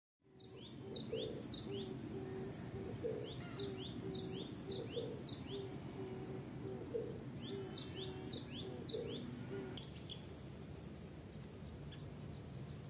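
A bird singing outdoors: short phrases of quick, high, downward-sweeping whistled notes, repeated in three bursts and stopping about ten seconds in, with a lower repeated note underneath and a steady low background hum.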